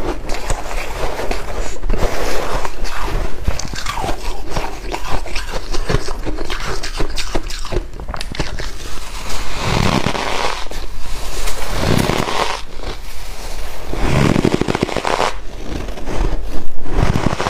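White ice being bitten and chewed close to the microphone: a dense run of sharp crunches and crackles, with a few fuller, deeper crunches about ten, twelve, fourteen and sixteen seconds in.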